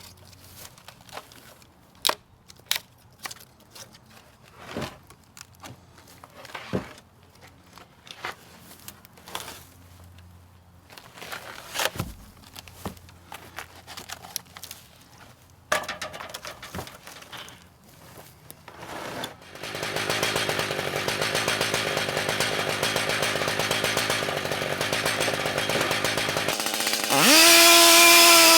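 Scattered knocks and clatter, then a Stihl MS 880 chainsaw runs steadily for several seconds and jumps to full throttle near the end, at the start of a milling cut.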